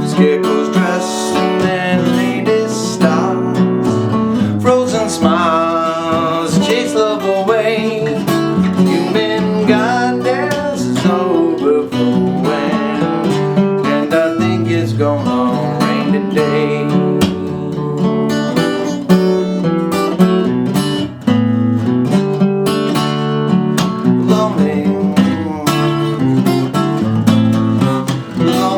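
Acoustic guitar strummed and picked in a steady rhythm, playing a slow ballad.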